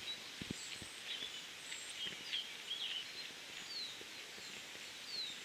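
Small woodland birds singing: scattered short high chirps and brief falling whistled notes over a steady background hiss, with a few soft low thumps near the start.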